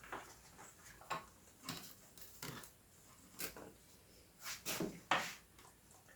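Irregular small knocks, clicks and scrapes of hands handling the opened keyboard's plastic casing and internal parts, with the loudest cluster near the end.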